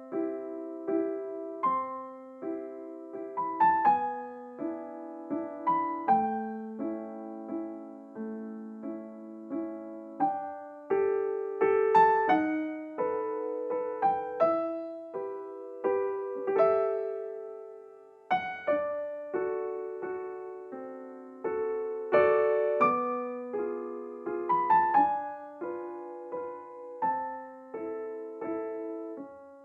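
Background solo piano music: slow, gentle notes and chords, each struck and left to fade.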